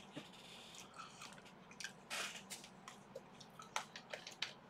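Faint mouth sounds of chewing crispy kakiage tempura: small wet clicks scattered throughout, with a short crunchy rustle about two seconds in.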